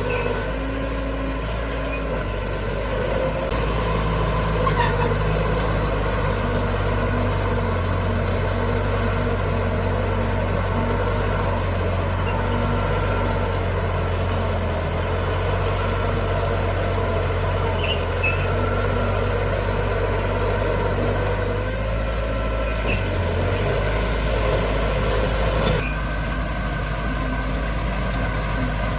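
Heavy diesel engine of earthmoving machinery running steadily under work, its note changing near the end.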